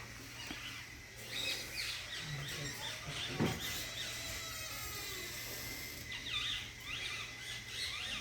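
Birds chirping in clusters of quick high notes that glide up and down, over a faint steady hum, with a single dull thump about three and a half seconds in.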